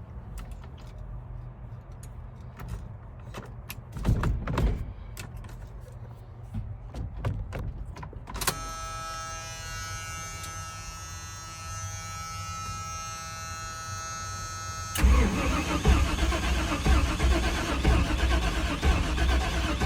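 Army truck engine being cranked by the starter from about fifteen seconds in: a loud, uneven low churning that does not settle into a run, as the engine is getting no fuel pressure. Before that there are scattered clicks and knocks, then a steady high whine that starts suddenly about eight seconds in and runs for several seconds.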